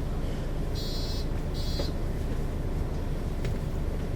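Mercedes-Benz O 530 G Citaro articulated bus running, a steady low rumble of engine and running gear, with two short electronic beeps about a second in.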